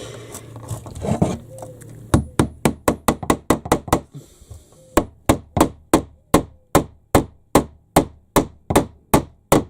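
Hammer driving nails into a timber beam: a quick run of sharp strikes begins about two seconds in, pauses briefly, then carries on with steady blows a couple of times a second.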